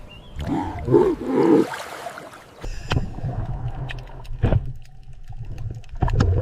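Seal calls: several low, rough calls in the first couple of seconds, then a low steady drone with scattered clicks and a few more calls.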